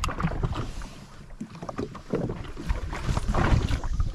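Wind buffeting the microphone, with water washing around a Sea-Doo jet ski on open sea; the noise rises and falls unevenly in gusts.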